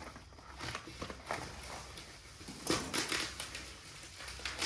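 Plastic packaging crinkling and crackling as it is handled, in irregular bursts, with a louder run of crackles about three seconds in.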